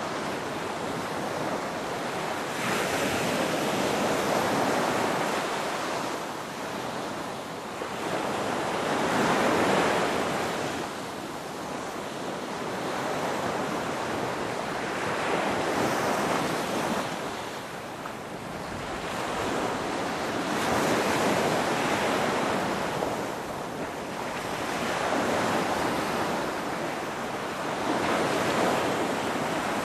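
Ocean surf: waves breaking and washing back, swelling and fading in a slow rhythm about every five to six seconds.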